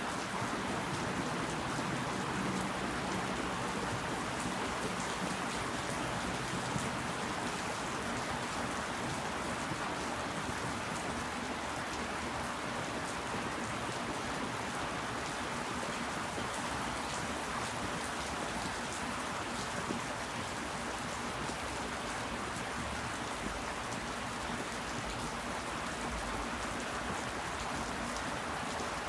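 Steady rain falling, a constant hiss with many small drop impacts scattered through it.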